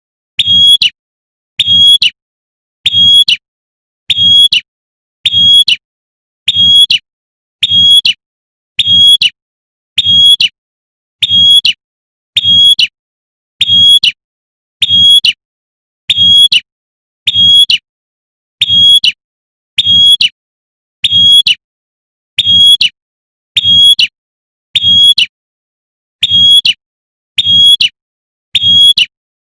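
Female prinia (prenjak) call, a short sharp call near 3.5 kHz repeated evenly about once a second, with a faint low hum under each call and silence between: a looped lure recording of the female calling the male.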